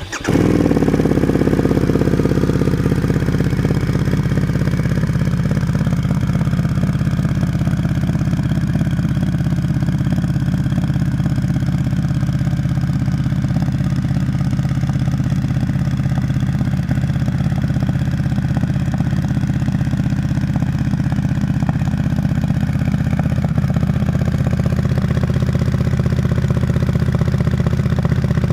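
Harley-Davidson Pan America 1250 ST's V-twin engine, breathing through a Unit Garage double exhaust, starting up and settling down over the first couple of seconds from a higher idle into a steady, loud idle.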